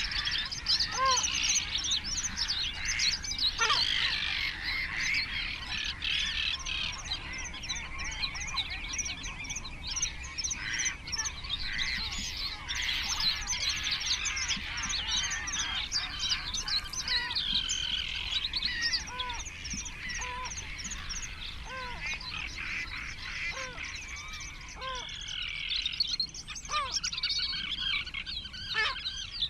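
A dense chorus of small songbirds singing and chirping, with short, lower-pitched calls from another bird breaking in now and then.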